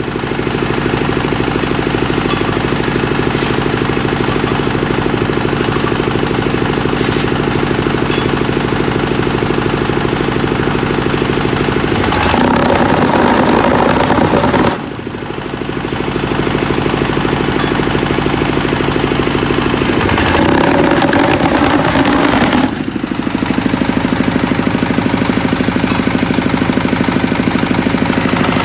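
Diesel engine powering a QT4-30 concrete hollow block machine, running steadily. Twice, for about three seconds each, a louder, rougher noise joins in over the engine.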